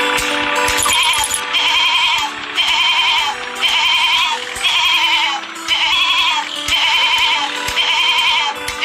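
A run of short, wavering sheep-like bleats repeating evenly about once a second over background music.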